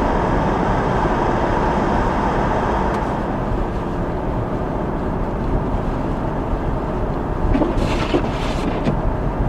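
Steady road noise inside a moving car's cabin: engine and tyres on a snow-covered road, with a few brief hissing sounds about eight seconds in.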